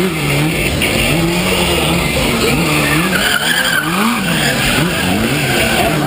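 Motorcycle engines revving up and down over and over, the pitch rising and falling about once a second, over a loud hiss of noise.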